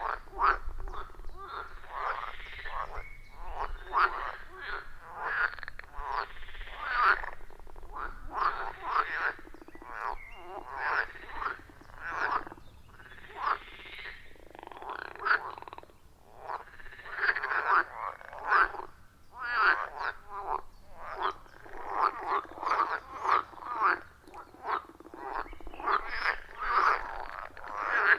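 Chorus of many frogs calling at a pond: short croaking calls overlap in a dense, continuous clamour, rising and falling in loudness with only brief lulls.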